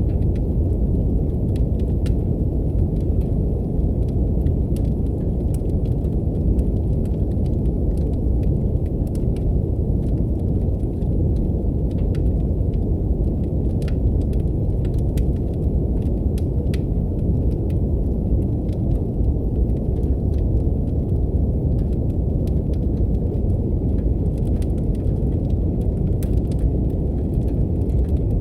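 Brown noise, a steady deep rumbling hiss, mixed with a wood fire crackling in a fireplace, its faint sharp pops scattered irregularly over the noise.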